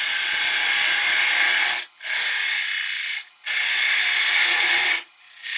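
A woodworking tool cutting into wood in bursts of one to two seconds, with short breaks between them.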